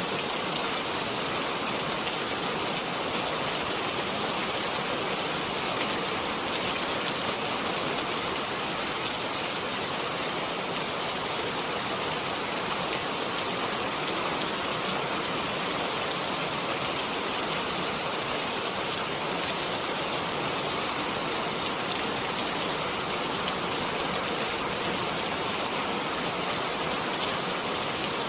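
Steady rain falling, an even dense hiss of many drops with no change in strength.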